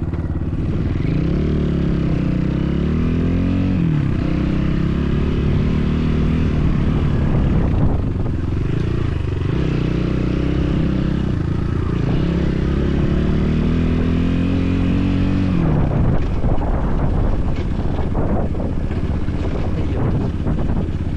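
BSE enduro motorcycle engine revving under way, its pitch climbing and then dropping off several times as it is ridden through the gears, with a rougher, noisier stretch near the end.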